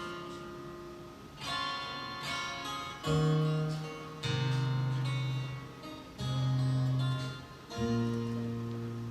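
Live band playing an instrumental intro: strummed acoustic guitar chords over sustained low notes, the chord changing about every one and a half seconds.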